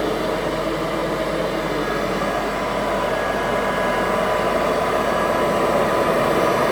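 Rebuilt Kirby 517 upright vacuum cleaner running steadily as it vacuums, a dense motor and airflow noise with a faint steady whine.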